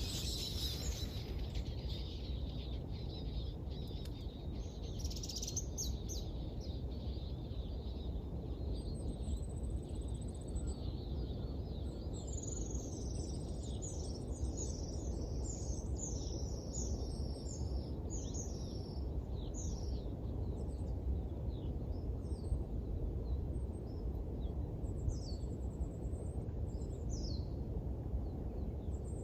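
Small birds chirping and singing in quick series of short, high, downward-sliding notes, busiest in the middle of the stretch, over a steady low background rumble of outdoor noise.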